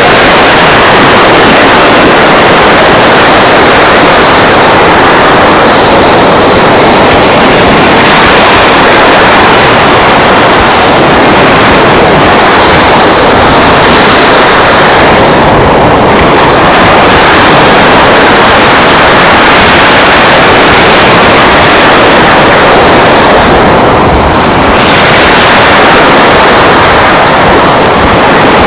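Steady, loud rushing of wind on the microphone over waves washing on the beach.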